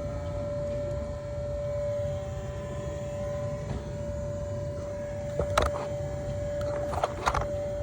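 EVAP smoke machine running, a steady humming whine over a low rumble, with a few sharp clicks of handling about five and a half and seven seconds in.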